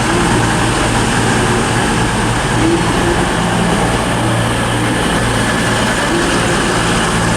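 CrossCountry Class 220 Voyager diesel-electric multiple unit arriving at the platform, its underfloor diesel engines giving a steady low drone.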